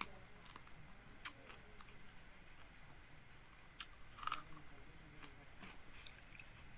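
Faint scattered clicks and smacks of someone eating, the loudest about four seconds in, over a steady high-pitched drone of insects.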